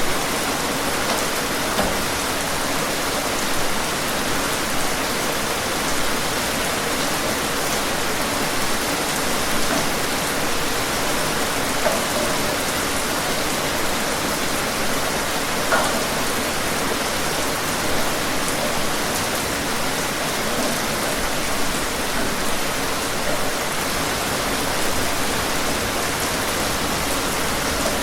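Steady rain falling, an even hiss with single louder drops ticking now and then.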